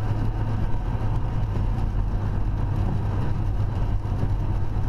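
Steady drone of a car in motion heard from inside the cabin: a constant low engine and tyre hum with road noise.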